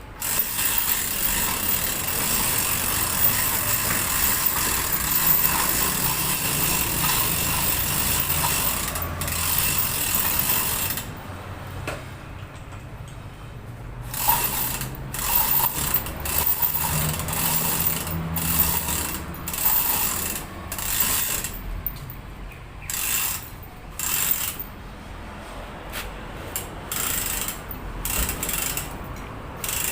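Hand-operated chain hoist lifting a car engine, its ratchet pawl clicking and chain rattling. Continuous for about the first eleven seconds, then in short pulls about once a second.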